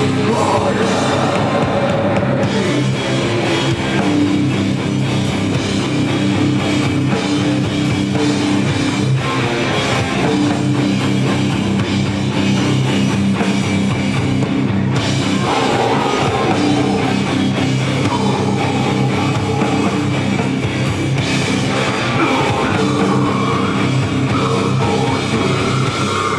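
Live rock band playing loud, heavy music on drum kit and guitars; the song stops suddenly at the end.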